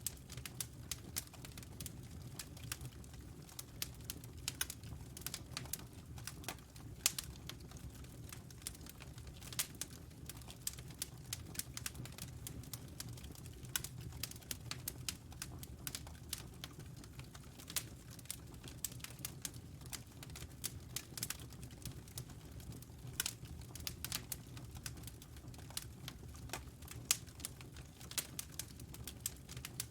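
Wood fire crackling in a fireplace: irregular sharp pops and snaps, often several a second, over a low steady rumble of the flames.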